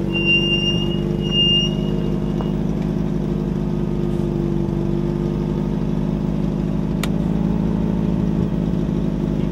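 Toyota pickup's engine running steadily at idle, still going on old fuel after sitting nearly two years. A thin high squeal sounds over it for the first couple of seconds, and there is a single click about seven seconds in.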